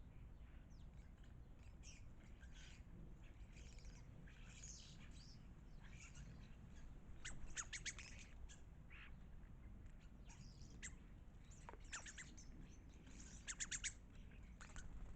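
Garden birds chirping with short, scattered calls, and two louder runs of quick repeated notes about seven and thirteen seconds in.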